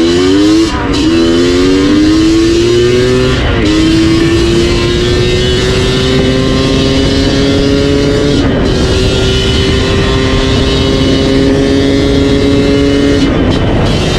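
Yamaha DT 125 two-stroke single running through an MCF tune pipe (expansion chamber), pulling through the gears: the exhaust note climbs in pitch, drops at each shift about a second in, near four seconds, near eight and a half seconds and near the end, then climbs again.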